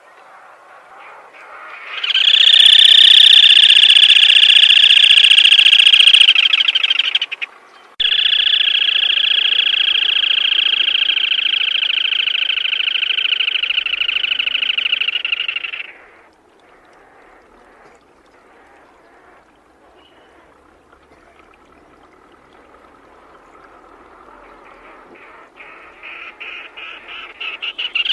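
Black-tailed crake calling: two long, fast-pulsed trills, about five and eight seconds long, separated by a short break. After a quiet stretch, separate notes speed up into another trill near the end.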